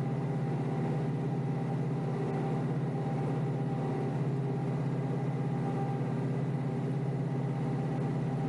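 Kioti DK5320SE tractor's diesel engine running at a steady speed while it pushes snow, a constant low hum with no change in pitch.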